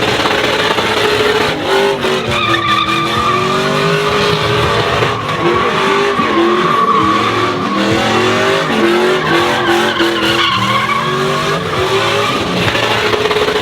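Trucks burning rubber: a continuous tire squeal that wavers up and down in pitch, over engine noise.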